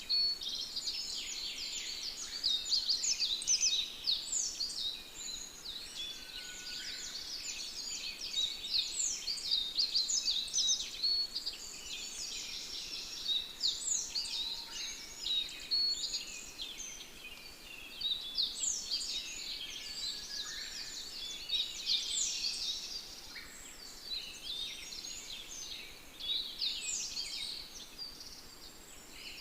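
A chorus of many small birds chirping and twittering without a break, the calls overlapping.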